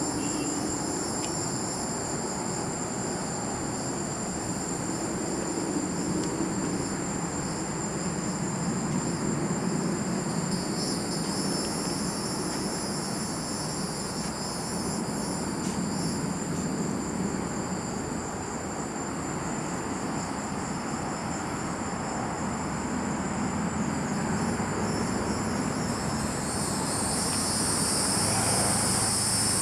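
A steady chorus of insects chirring, one continuous high-pitched whine that grows louder near the end, over a low rumbling background.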